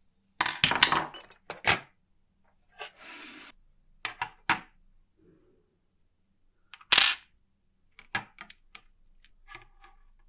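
Scattered clicks and clinks of small metal typewriter parts and hand tools being picked up and set down on a workbench, with a brief scraping rub about three seconds in and the sharpest knock about seven seconds in.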